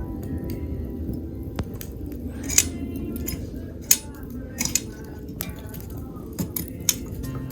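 Wood campfire crackling, with sharp irregular pops over a low steady rush of the flames. Background music plays faintly underneath.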